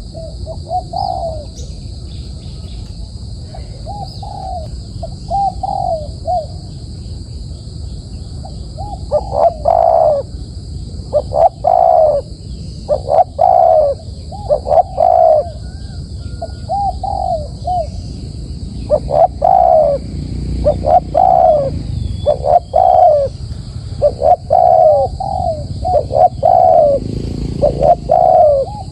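A decoy dove cooing in repeated short phrases of a few low notes, only a few phrases at first and then almost continuous from about nine seconds in. A steady low rumble runs underneath.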